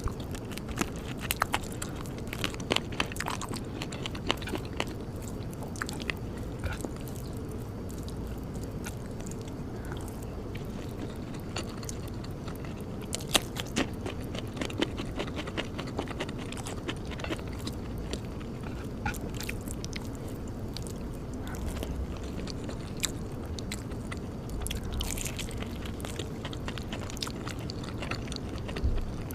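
A person eating close to the microphone: chewing and biting, with scattered small crunches and wet clicks of the mouth.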